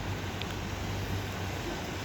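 Steady street noise: a low traffic hum under an even hiss, with a brief high chirp about half a second in.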